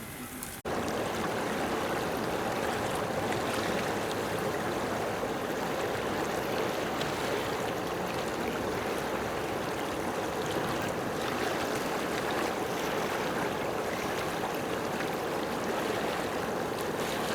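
Steady rushing noise of running water, starting abruptly about half a second in.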